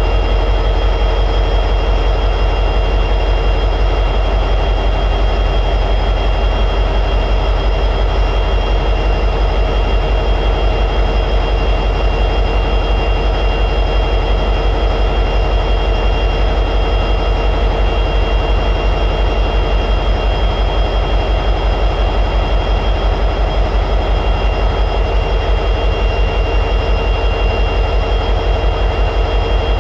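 EMD 710G3B two-stroke diesel prime mover of an SD60E locomotive running steadily at high idle: an even, fast low throb with a steady high tone above it.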